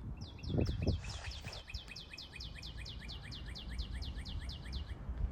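A songbird singing a long, fast trill of repeated falling high notes, about six a second, that lasts nearly five seconds. A couple of low thuds come near the start.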